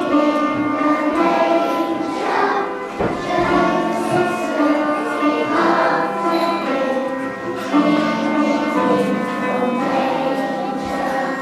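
Music: a group singing with instrumental accompaniment, with bell-like ringing notes among the held chords.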